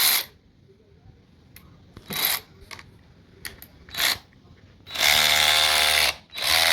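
Byczone 3/8" cordless electric ratchet on a DeWalt 20V battery running in short trigger bursts, then two longer runs of about a second each near the end, its motor and gear head whirring.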